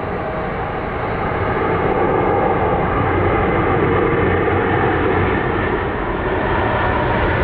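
Widebody jet airliner's engines passing close by as a loud, steady rushing roar, which grows louder about two seconds in and then holds.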